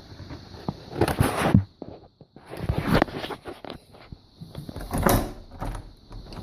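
A door being rattled and knocked, in three louder bouts of clattering about one, three and five seconds in, with scattered sharp clicks between them.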